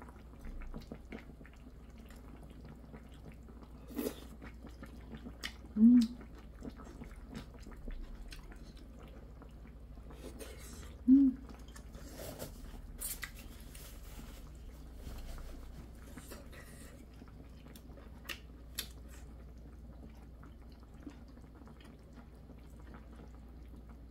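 Mouth-close eating sounds: chewing and smacking with light clicks of chopsticks against dishes, and two brief loud vocal sounds from the eater, about 6 and 11 seconds in.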